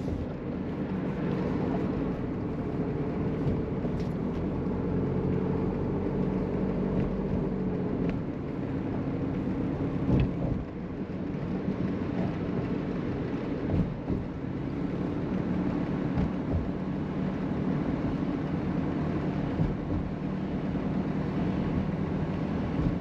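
Mercedes-Benz W201 190D diesel heard from inside the cabin at steady Autobahn cruising speed: a steady engine drone under wind and tyre noise, with a few faint clicks.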